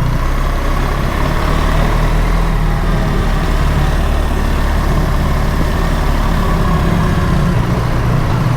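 BMW R 1300 GS's boxer-twin engine running steadily while riding, with wind and road noise over it.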